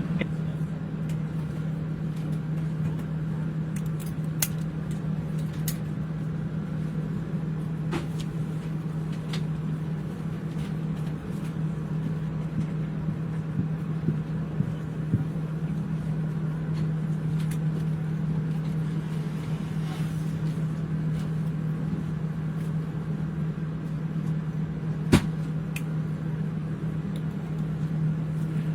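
Steady low hum of an airliner cabin, with a few faint clicks and one sharper click near the end.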